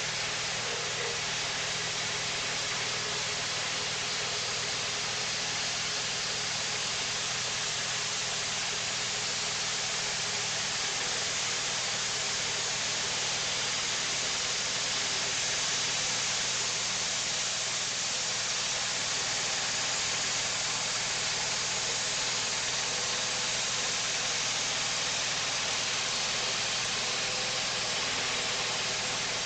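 Wood-Mizer portable band sawmill running steadily: an even engine drone with a constant hiss over it, growing a little louder midway.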